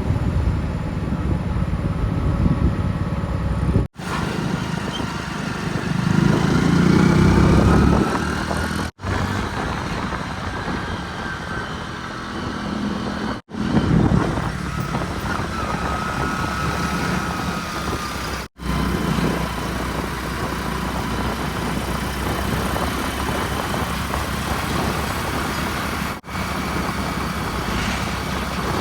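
Heavy diesel machinery engines running steadily, with a faint high whine. The sound is spliced from several short clips, with brief dropouts between them, and it is loudest about six to eight seconds in.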